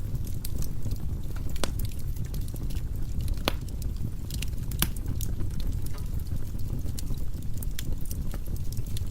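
Firewood burning in a fireplace: a steady low rumble of flames with irregular crackles and sharp pops, two louder snaps near the middle.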